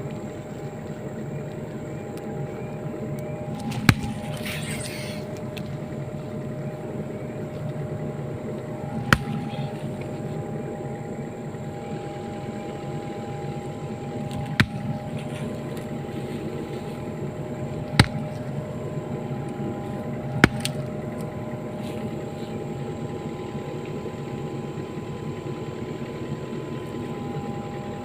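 Excavator engine running steadily with a constant hum, broken by five short sharp knocks spaced several seconds apart.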